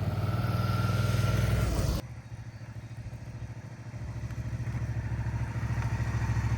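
Suzuki V-Strom 650's V-twin engine running steadily. It is loud for the first two seconds, then cuts abruptly to a quieter stretch that slowly grows louder.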